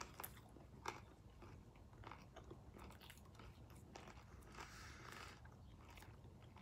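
Faint close-mouthed chewing of a crunchy shrimp tostada: soft scattered crunches and mouth clicks, the clearest a little under a second in.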